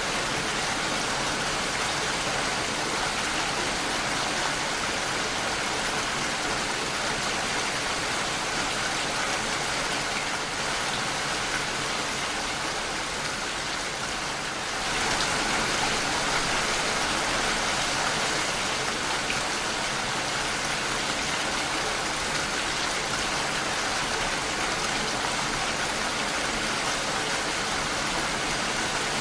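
Steady rain falling against a window pane, a dense, even patter that grows slightly louder about halfway through.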